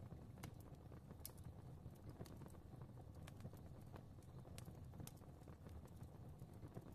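Fireplace fire crackling softly: irregular small pops and snaps, several a second, over a low steady rumble of the flames.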